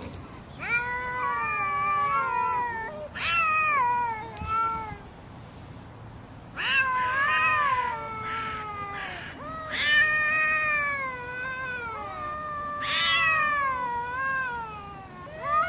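Domestic cat meowing in long drawn-out calls, about five in a row roughly three seconds apart, each rising and then falling in pitch.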